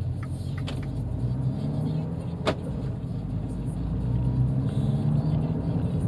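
Abarth 595's 1.4-litre turbocharged four-cylinder engine and road noise heard from inside the cabin while driving: a low steady drone that grows and rises a little about four seconds in as the car picks up speed. A single sharp click comes about two and a half seconds in.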